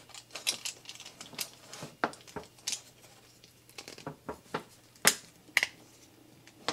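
Plastic parts of a Transformers action figure clicking and knocking as it is transformed by hand: an uneven string of short, sharp clicks, the loudest two about five seconds in.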